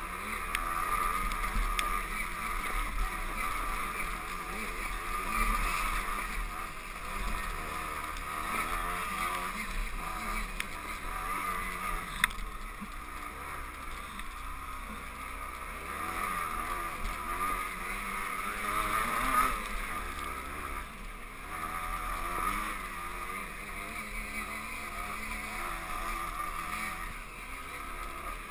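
Two-stroke 125 cc enduro motorcycle engine running while ridden, its revs rising and falling over the terrain. A single sharp knock about twelve seconds in.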